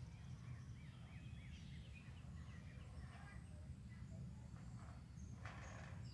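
Songbirds singing faintly over a steady low background rumble. A quick run of about six repeated slurred up-and-down notes comes in the first second and a half, followed by scattered chirps. A short scratchy noise comes a little over five seconds in.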